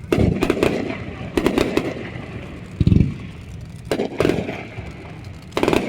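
Fireworks going off: a run of sharp cracks and pops at irregular intervals, with a heavy, deep boom about three seconds in.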